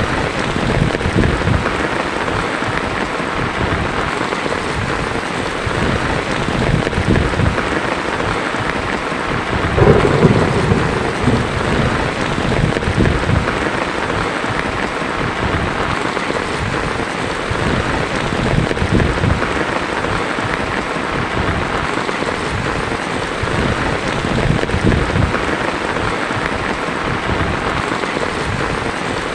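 Heavy rain falling steadily on a tin roof, with thunder rumbling low underneath; the loudest rumble comes about ten seconds in.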